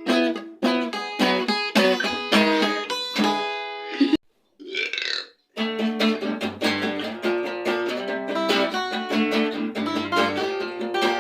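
Acoustic guitar strumming chords that stops about four seconds in. After a short gap comes a brief vocal noise of about a second, and then the acoustic guitar starts strumming a new song.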